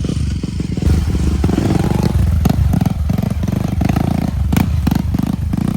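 Motorcycle engine running steadily, with scattered clattering knocks.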